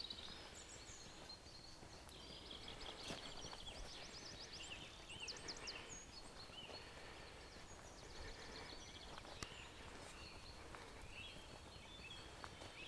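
Small songbirds calling and singing faintly: short high chirps and quick trills scattered through a quiet rural background.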